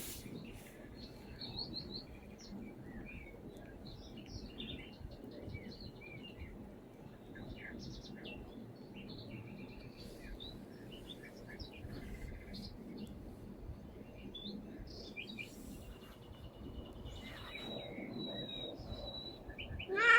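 Small birds chirping and trilling in many short, varied calls over a faint steady hiss: birdsong from a bird video playing on a screen. Right at the end, a cat starts to meow.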